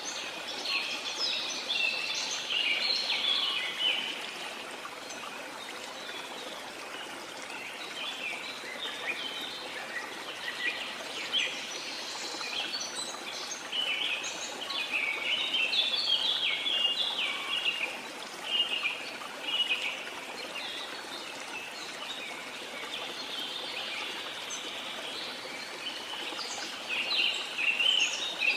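Steady rush of a waterfall, with songbirds chirping over it in quick bursts that come and go in bouts.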